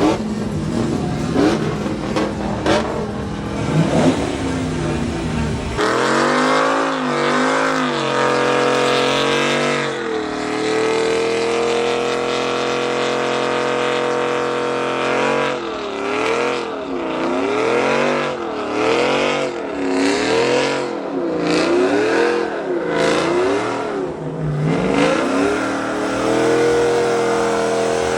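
Truck engine revving hard, as in a burnout. A dense noisy rush comes first. From about six seconds in, a high held engine note takes over; it swings up and down about once a second through the middle and settles steady again near the end.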